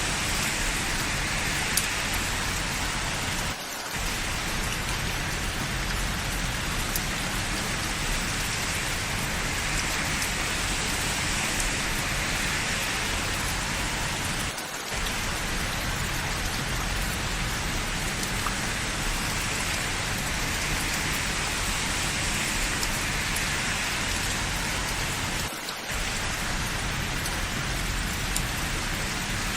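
Steady rain falling, with scattered drop ticks. The sound dips briefly three times, about 11 seconds apart.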